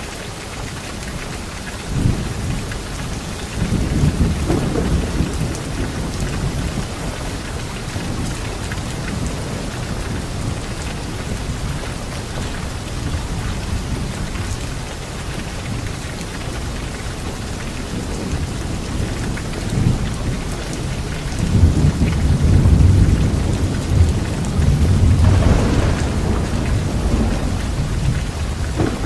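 Steady rain falling, with thunder rumbling through it several times: short rolls a couple of seconds and about four seconds in, and a longer, louder roll of thunder in the last third.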